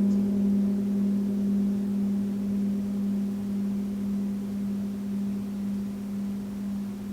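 A gong's lingering tone dying away: one steady low hum with a slow wobble, its higher overtones fading out near the start and the whole sound growing gradually quieter.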